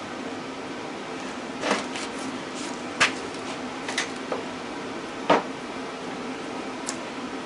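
A handful of sharp metal clinks and knocks, about six spread over several seconds, the loudest about three and five seconds in, from hand tools and electric motor parts being handled during disassembly. Under them runs the steady hum of a torpedo heater.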